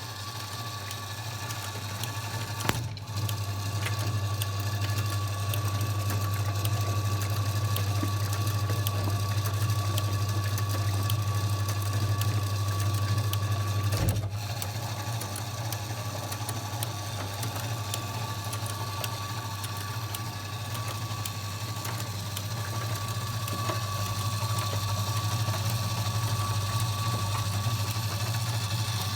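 Kenwood washing machine running with a steady low hum and a faint even ticking, with a sharp click about three seconds in and another about fourteen seconds in.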